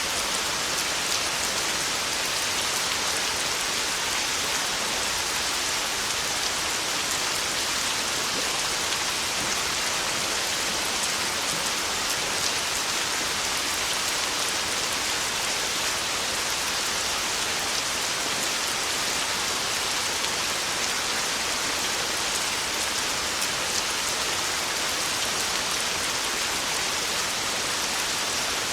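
Heavy rain falling steadily on a tin roof, a dense even hiss that neither swells nor breaks.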